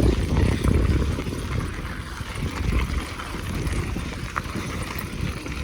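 Noise of riding a bicycle: a steady, rough rumble of wind buffeting the microphone and tyres rolling on the road, with small rattles and a single click about four seconds in.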